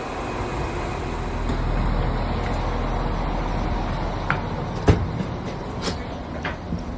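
Irish Rail 22000 class diesel multiple unit's underfloor diesel engines idling steadily while the train stands before departure, with a few light clicks and one sharp knock about five seconds in.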